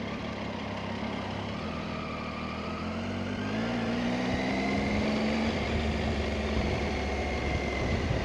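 Motorcycle engine running under way, its pitch rising as it accelerates a few seconds in and then holding steady.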